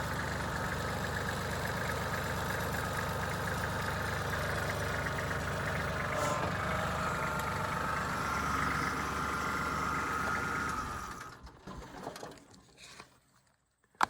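Kubota L3400 tractor's three-cylinder diesel engine running steadily, then shut off about eleven seconds in and dying away to quiet.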